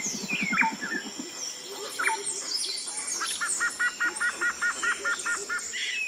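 Birdsong ambience: several birds chirping and calling, over a thin steady high tone. In the second half one bird repeats a short two-part note about four times a second for a couple of seconds.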